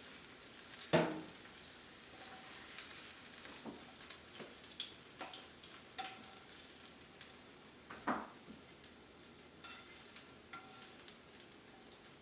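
A utensil clinking and tapping against a pan, over a faint sizzle of caramelized onions frying, with two sharper knocks, about a second in and near eight seconds in.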